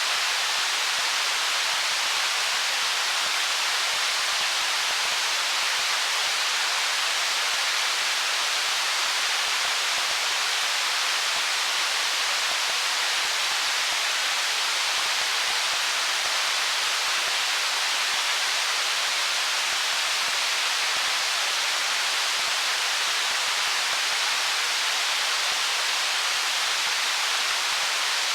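A stream flowing over stones: a steady, even rushing hiss, mostly high-pitched with little low rumble.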